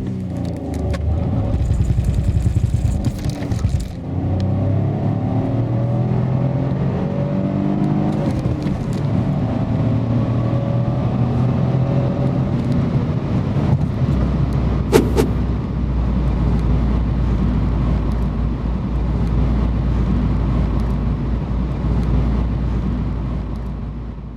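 Citroën DS 3 Cabrio's 1.2-litre turbocharged three-cylinder engine accelerating hard, its pitch rising, with a short break about four seconds in. Then the car runs on at speed with a steady low rumble, and there is a brief sharp tone about halfway through.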